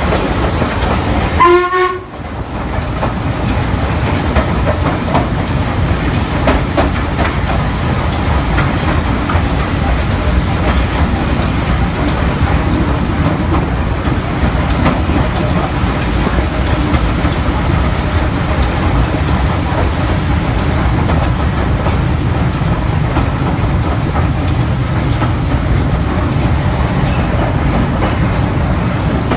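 Steam-hauled train heard from a carriage window: steady running noise of the coaches on the rails, with a Stanier Black 5 4-6-0 at the head. About a second and a half in there is a short, loud pitched sound, then the sound drops out for a moment.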